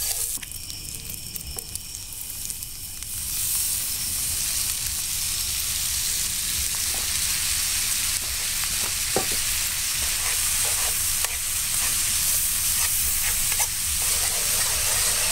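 Ground deer sausage sizzling as it browns in a cast-iron frying pan, stirred now and then with a utensil. The sizzle is softer for the first few seconds, then fuller, with a few light scrapes and clicks.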